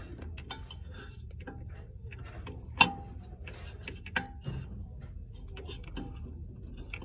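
Hard household items such as dishes and glassware clinking and knocking as they are handled on a shelf, with scattered light clicks, a sharp ringing clink about three seconds in and another a little over a second later, over a low steady hum of the shop.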